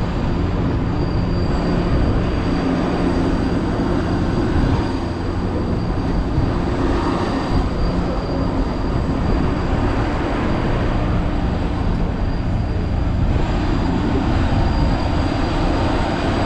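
Multi-car studio tour tram running steadily, heard from aboard: a continuous engine hum and rolling noise, with a thin steady high whine over it.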